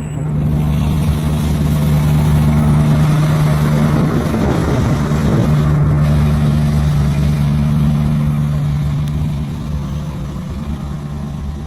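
Diesel locomotive engine running with a deep, steady hum, growing louder in the first seconds and easing off toward the end.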